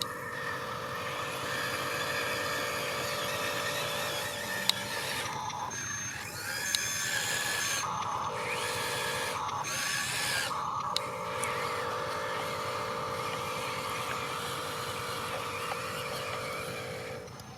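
Small electric motors of a radio-controlled construction model whining steadily, their pitch shifting between about five and eleven seconds in as different functions start and stop, with a few sharp clicks.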